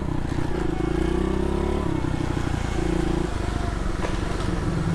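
SSR 110cc pit bike's single-cylinder four-stroke engine running, its note changing abruptly twice, about two and three seconds in.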